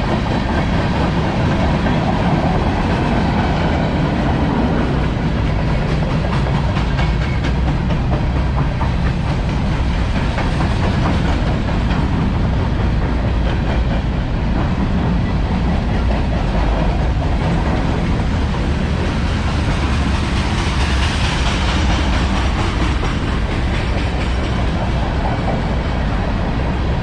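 CSX freight train rolling past: a steady rumble of steel wheels on the rails, with the clickety-clack of wheels over rail joints.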